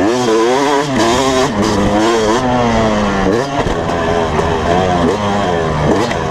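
Motocross dirt bike engine being ridden hard, its pitch rising and falling over and over as the rider works the throttle and gears.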